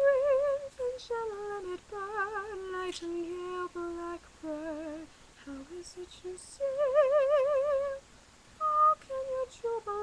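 A woman singing solo and unaccompanied, in phrases with a wide vibrato and short breaks between them.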